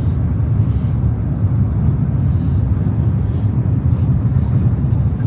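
Shinkansen bullet train running: a steady low rumble.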